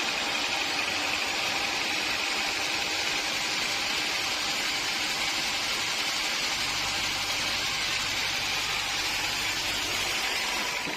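Sawmill machinery running steadily: an even mechanical hum with a hiss over it, and a few faint steady tones.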